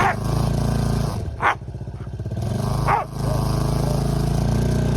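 ATV engine running steadily under way, dipping briefly in level about halfway through. Three short sharp sounds cut through it, about a second and a half apart.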